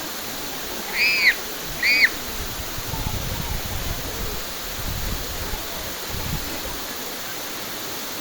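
Waterfall rushing steadily, with two short high arching calls about a second apart near the start.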